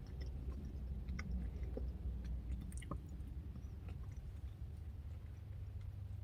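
A person chewing a mouthful of blueberry pecan yogurt parfait, heard as faint, scattered small wet clicks.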